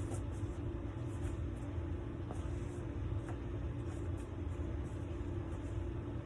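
Steady low machine hum with a few faint light clicks over it.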